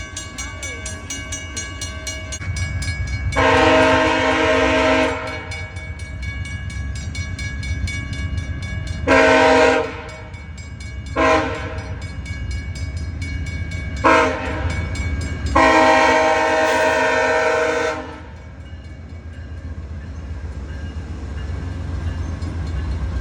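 Passenger locomotive's multi-chime air horn sounding five blasts: a long one, three short ones and a final long one. Under the horn is the steady low rumble of the train running on the rails.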